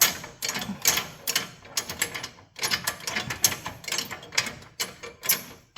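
A pinned metal adjuster on the Kubota tractor's linkage is being turned counterclockwise by hand. It gives a string of uneven metallic clicks and rasps, about two or three a second.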